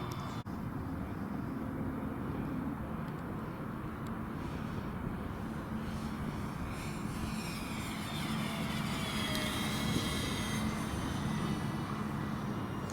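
C-130 aircraft flying, its propellers giving a steady whine whose pitch glides down as it passes, about seven to ten seconds in. Wind rumbles on the microphone underneath.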